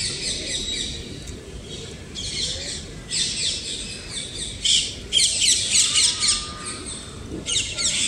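Birds chirping in several bursts of rapid, high, repeated notes, loudest around the middle.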